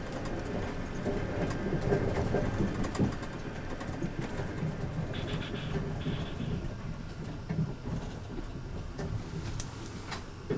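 Passenger train rumbling steadily along the track, heard from inside the carriage, with a few short clicks from the wheels and car body.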